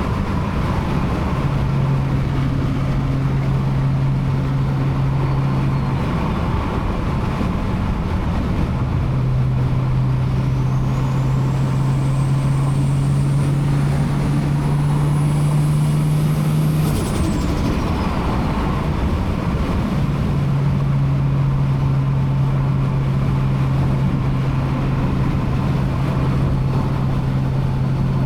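Toyota Supra MK4's big-turbo 2JZ-GTE straight-six engine running at a steady cruise, a low even drone that drops away twice for a few seconds and comes back. In the middle, a faint high whistle rises over several seconds and then falls away quickly.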